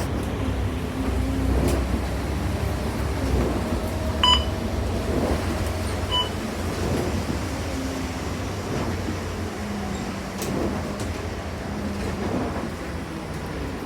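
Inside a moving city bus: steady engine rumble and road noise, with two short electronic beeps about four and six seconds in.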